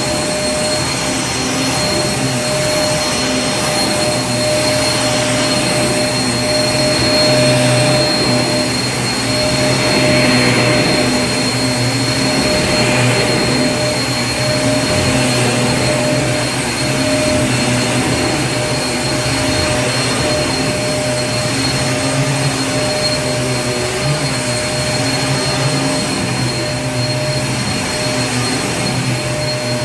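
Vacuum cleaner running continuously: a steady rush of air with a constant whine from its motor, swelling slightly now and then.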